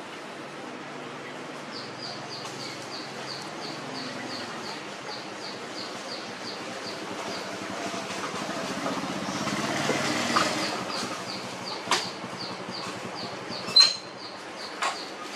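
High, short chirps repeating evenly, about two or three a second, over a steady background hiss. A few sharp knocks come in the last few seconds.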